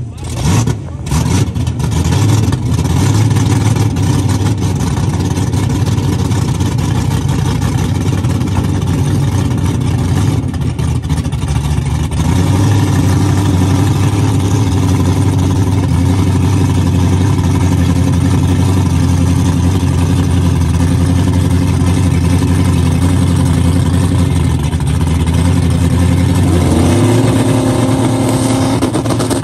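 Loud drag-race car engines idling at the starting line, the rumble growing steadier and stronger about halfway through. Near the end the revs rise as a car is brought up for the launch.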